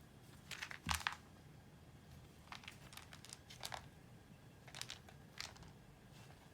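A few short crinkling, rustling sounds, the loudest cluster about a second in and fainter ones later.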